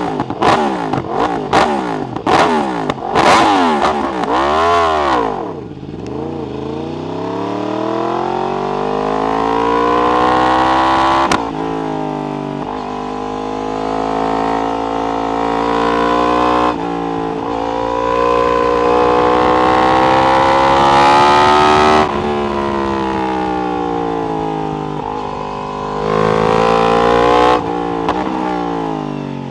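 Yamaha R1 inline-four through an Akrapovic exhaust: several quick throttle blips at first, then the bike pulls hard, engine pitch climbing steadily and dropping sharply at each upshift, three times, before easing off with one more short burst of throttle near the end.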